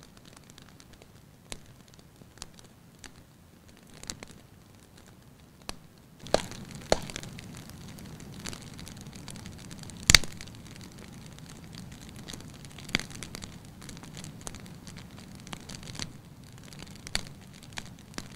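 Wood fire in a fireplace crackling, with scattered sharp pops of varying loudness and one loud crack about ten seconds in. Under them a steady low rush of the flames grows louder about six seconds in.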